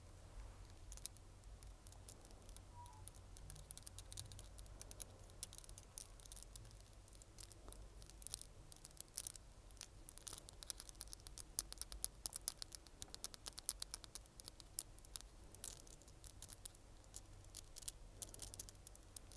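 Close-up ASMR trigger sounds: rapid, crisp clicks and crackles right at a sensitive microphone, sparse at first and growing dense after several seconds.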